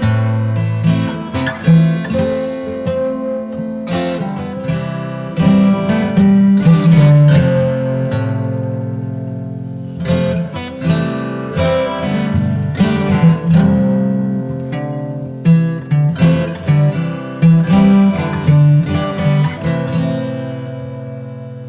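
Acoustic guitar music: strummed and plucked chords ringing out and fading between strums.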